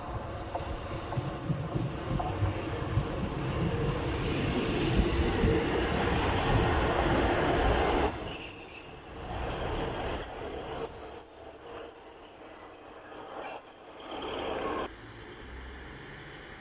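Diesel passenger train pulling into the station: the rumble builds as it nears, then high-pitched wheel and brake squeal starts about eight seconds in as it slows. The sound drops away suddenly near the end.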